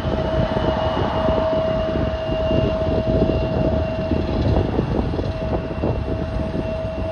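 Regional jet airliner's turbofan engines running at a steady setting, a constant high whine over a rough, crackling rumble.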